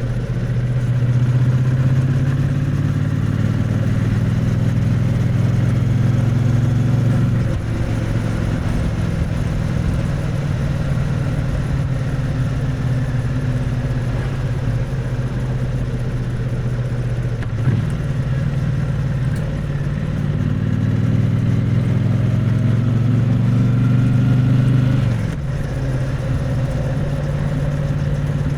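Triumph Bonneville T100's parallel-twin engine and exhaust, heard close up while riding. The engine note climbs under throttle and drops back sharply about a quarter of the way in and again near the end, holding steadier in between.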